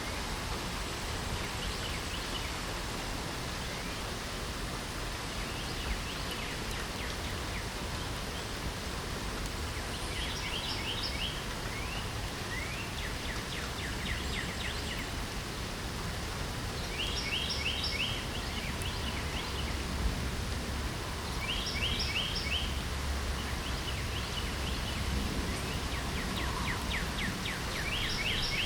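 Steady rain hiss with a songbird singing short phrases of quick repeated notes every few seconds, starting about a third of the way in.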